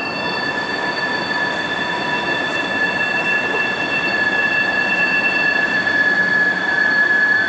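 A long train passing close by, loud, its wheels giving a steady high-pitched squeal of several held tones over an even rolling noise.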